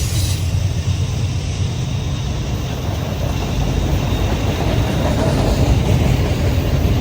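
Norfolk Southern autorack freight train rumbling steadily, a low rumble with no clear breaks.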